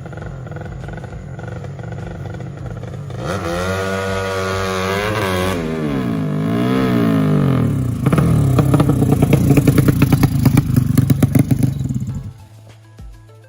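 A 200cc motorcycle engine being revved: its pitch rises, swings up and down twice, then it is held loud at high revs for about four seconds before dropping suddenly back to a quiet idle near the end.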